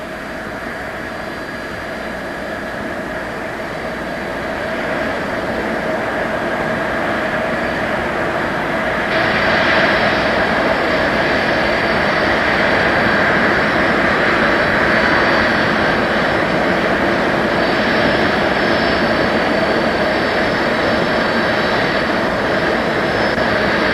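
Boeing 747 jet engines running, a rushing noise with a steady whine over it, slowly growing louder and then stepping up about nine seconds in.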